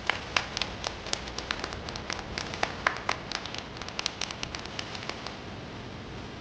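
Scattered applause from a small group, with irregular claps several a second, thinning out and stopping about five seconds in.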